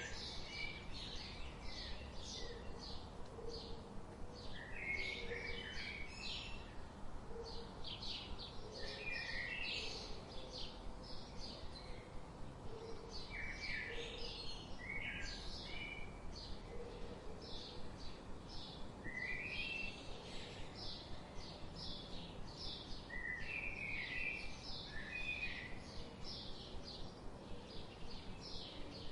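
Woodland songbirds calling and singing: rapid high chirps repeat a few times a second, with warbled song phrases and lower repeated notes between them. A steady background rush runs beneath.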